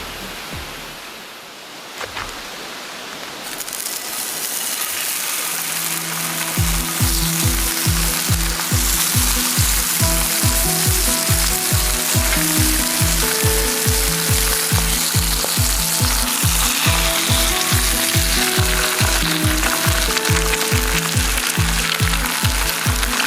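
Food frying with a steady sizzle. About six seconds in, background music with a steady beat starts and plays over it.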